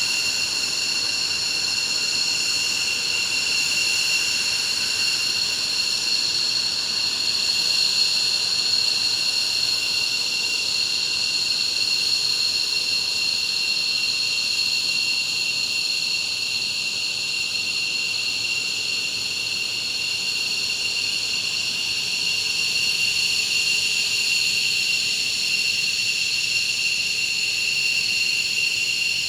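F-15J fighter's twin turbofan engines running steadily, a high turbine whine held at several fixed pitches over a constant rush of jet noise.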